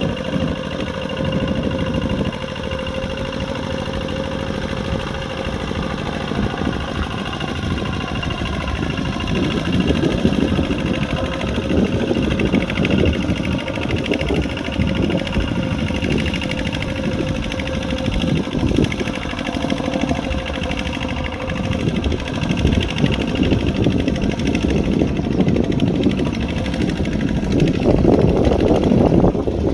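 Kubota RT140 Plus single-cylinder diesel engine of a farm tractor running steadily, its sound swelling and easing as the load changes, and getting louder near the end.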